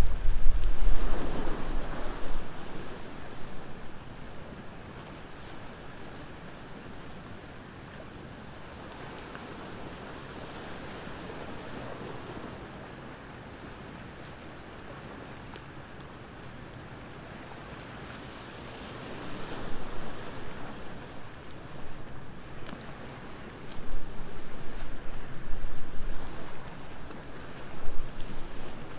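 Ocean waves washing ashore in slow surges: a loud wash at the start that dies down to a steady low hiss, then swells rising again in the second half. Wind buffets the microphone with a deep rumble at the start and again near the end.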